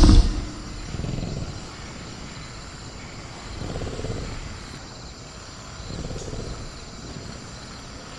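Sound-designed velociraptor giving three low growls about two seconds apart, over a faint steady cricket trill. The loud tail of a burst of roaring or cage rattling cuts off just after the start.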